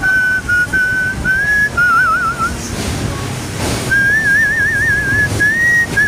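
A person whistling a slow melody in clear, held notes, some with a wavering vibrato, over a quiet musical accompaniment.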